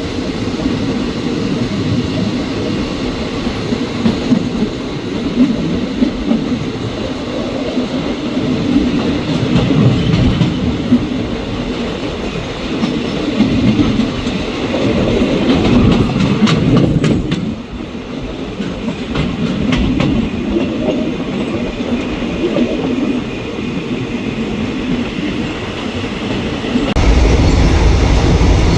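Passenger train hauled by an Alsthom diesel-electric locomotive running on the track: a steady rumble with scattered wheel clicks, growing heavier and louder near the end.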